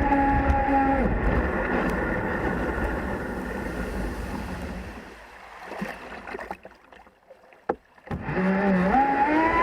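Jet kayak's jet drive whining at speed, then cutting back about a second in, leaving water rushing that fades almost to quiet, with a single click. Near the end the drive whine starts again and climbs in pitch in steps as the throttle opens.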